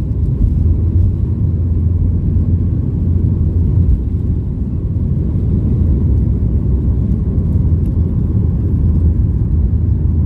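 Boeing 737 MAX 8-200's CFM LEAP-1B jet engines at takeoff, a steady deep rumble with a faint steady hum above it.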